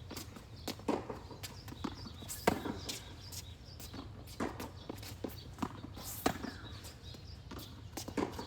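Tennis rally: sharp pops of rackets striking the ball and the ball bouncing on the court, with footsteps on the court in between.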